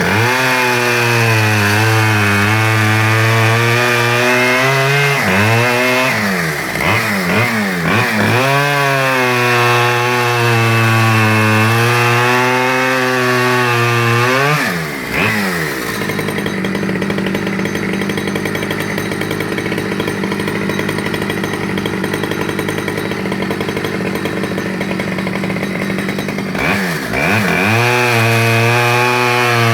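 Stihl 010AV 37cc two-stroke chainsaw running at high revs while cutting logs, its engine note sagging and recovering as the chain bites into the wood. In the middle stretch the engine runs steadier and higher-pitched, then drops back into the same loaded pattern near the end.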